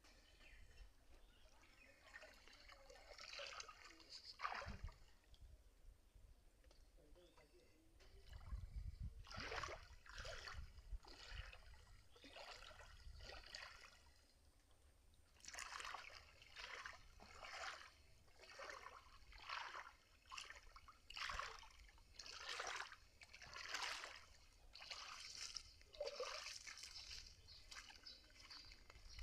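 Water at a waterfall splashing and trickling in short, irregular bursts, coming in quicker succession in the second half, with a low rumble about a third of the way in.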